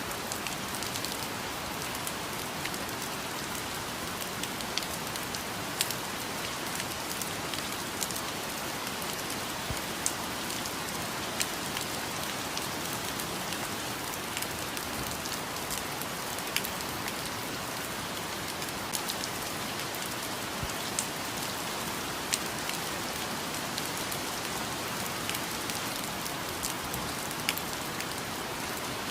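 Steady rainfall on foliage in a rainforest, an even hiss with scattered heavier drops dripping sharply.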